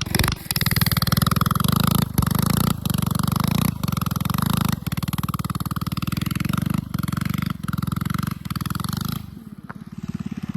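Mini bike engine running hard at high throttle, its sound dipping briefly several times; it drops much quieter about nine seconds in.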